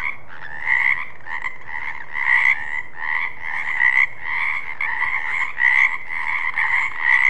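Frog croaking in a continuous call of steady pitch that swells louder roughly once a second. It starts suddenly.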